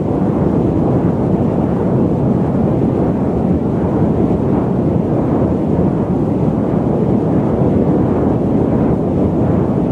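Loud, steady, low-pitched static noise: an even hiss weighted toward the low and middle range, with little high treble, unchanging throughout.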